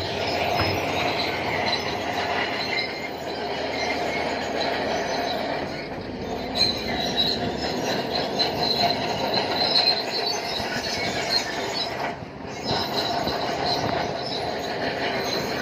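Steel crawler tracks of a Shantui DH7 C2 bulldozer squealing and clanking as it moves. The metallic squeal runs on steadily, with short breaks where the footage is cut.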